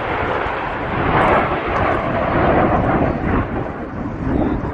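Loud, continuous jet noise from BAE Systems Hawk T1 trainers flying past in formation, their single Adour turbofans swelling and easing as they pass.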